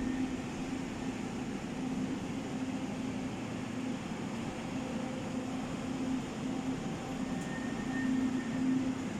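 Taiwan Railways Chu-Kuang Express passenger train pulling out of a station: a steady rumble of the train with a low hum that swells and fades every second or so.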